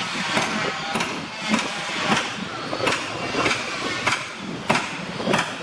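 Hammer blows on the wood of a wooden fishing boat under construction, struck in a steady rhythm of about two a second.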